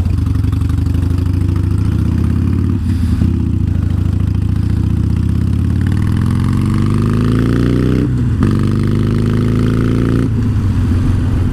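Harley-Davidson Iron 883's air-cooled V-twin with Vance & Hines exhausts, accelerating through the gears. The pitch climbs in each gear and drops briefly at the shifts, about three and eight seconds in, then eases off near the end.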